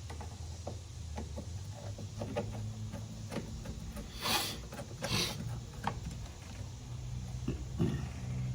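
Tools and parts being handled during disassembly: scattered light clicks and knocks, with two short hissing rasps about four and five seconds in, over a low steady hum.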